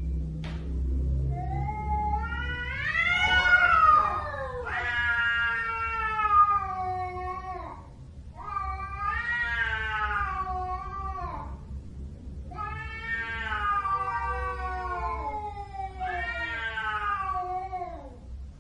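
Domestic cat yowling: about five long, drawn-out calls, each a couple of seconds long and wavering in pitch, one after another.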